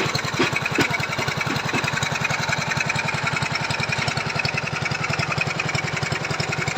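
Small engine of a motorised foundation-boring machine running steadily, with a rapid, even putter.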